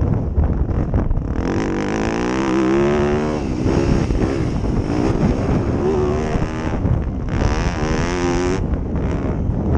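Motocross bike engine revving, its pitch climbing and dropping several times as it pulls through the gears, with a short break about seven seconds in. Wind rumbles on the microphone underneath.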